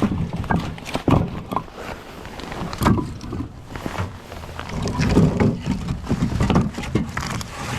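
Split firewood being handled: pieces clunking and knocking against each other in an irregular run of wooden knocks and low thuds.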